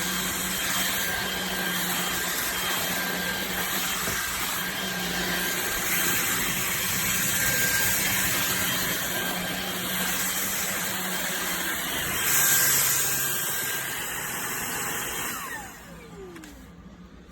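Levoit LVAC-200 cordless stick vacuum running steadily with a motor whine, briefly louder about twelve seconds in. Near the end it switches off and the whine falls away as the motor spins down.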